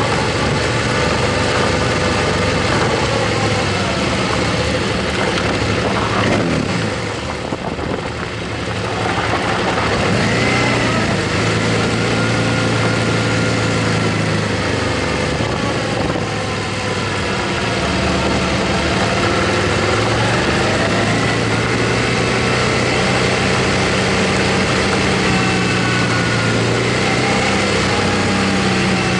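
Motorcycle engine running under way, its pitch rising and falling with the throttle, with a brief easing off about seven seconds in.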